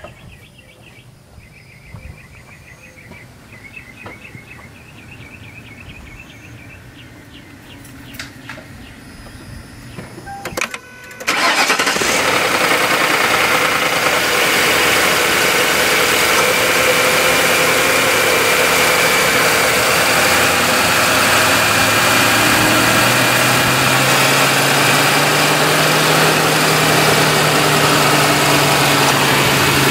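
A car engine starts abruptly about eleven seconds in and settles into a steady idle, heard close up from the open engine bay. Before it starts there are only a few faint clicks.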